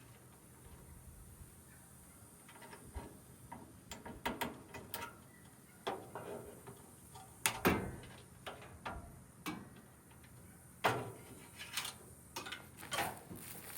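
Irregular metal clanks, knocks and rattles from sheet-metal appliance parts being handled and pried apart for scrap, with the sharpest knocks about halfway through and again near the end.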